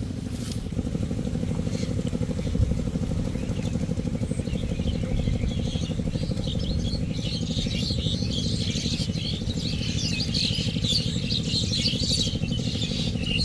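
A small engine running steadily with an even low drone. From about four seconds in, a high, irregular chattering sound rises over it.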